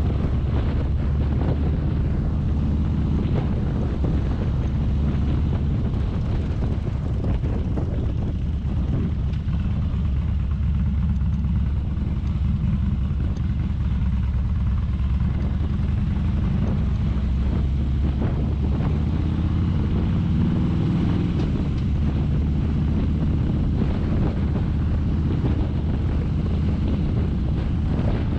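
Motorcycle riding at speed, its engine running under heavy wind rush on the microphone, with the engine note rising for a couple of seconds about twenty seconds in.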